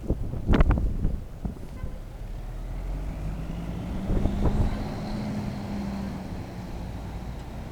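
1989 International 8300 truck's diesel engine running, its pitch climbing steadily for a few seconds then easing back down, with wind buffeting the microphone. A few loud thumps come about half a second in.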